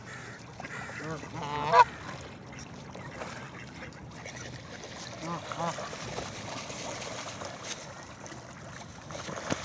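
Geese honking: a loud call about two seconds in and a couple more short honks around five to six seconds in.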